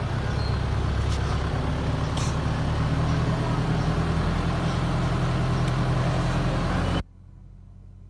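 Radio-controlled Canter dump truck running with a steady, low, engine-like hum, which cuts off suddenly about seven seconds in, leaving only a faint low hum.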